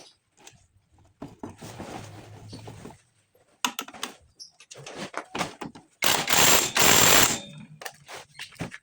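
Workshop clatter: scattered metallic clicks and knocks of tools and parts being handled. About six seconds in comes a loud hiss lasting just over a second.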